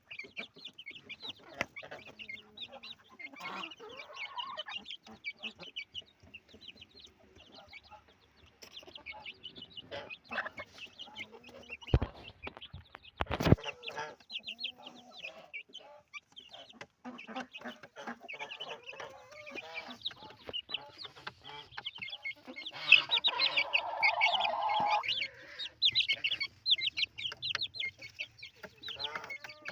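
Domestic chickens clucking and calling while they feed, with a dense run of short high calls and small ticks. Two loud knocks come about twelve and thirteen seconds in, and a louder, drawn-out call follows about twenty-three seconds in.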